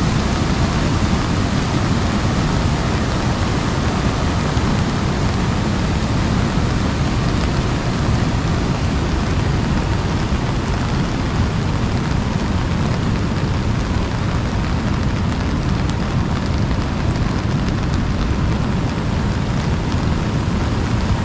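Steady rain pattering on an umbrella over a deep, continuous rush of flood water, with a few sharper drop taps in the second half.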